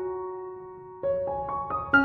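Background music: a slow piano melody, one held note fading away, then new notes coming in from about a second in.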